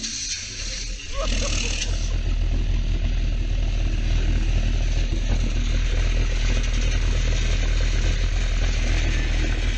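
An engine running steadily, with a loud low hum and a rushing hiss over it, stepping up in level about a second in.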